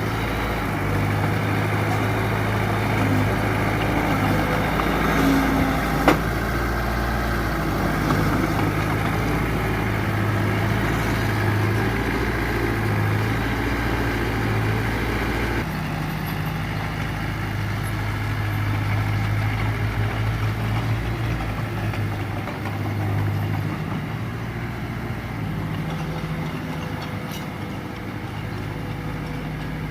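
Diesel engine of heavy earthmoving machinery running steadily, with a single sharp clank about six seconds in; the sound thins out about halfway through.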